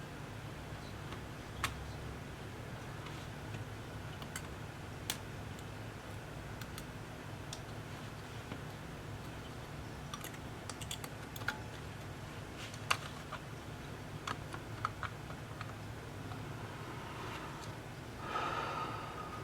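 Scattered small sharp clicks and taps, a dozen or so at uneven intervals, over a steady low hum. Near the end there is a short rustling scrape.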